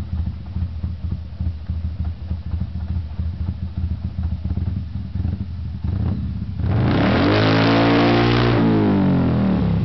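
Motorcycle engine idling lumpily through a loud exhaust, then revved hard about two thirds of the way in: the pitch climbs, holds briefly and drops back toward idle near the end.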